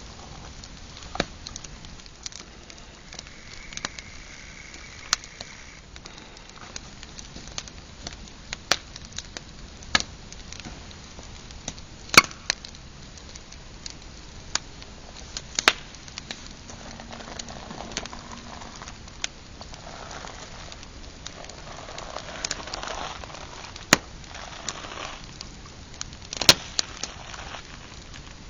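Pine campfire crackling, with irregular sharp pops and snaps over a low steady hiss of burning.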